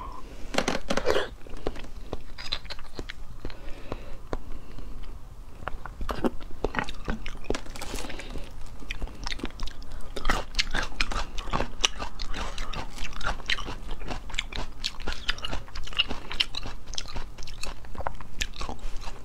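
Close-miked chewing and wet mouth sounds of a person eating braised beef bone marrow, with many quick, irregular clicks and smacks.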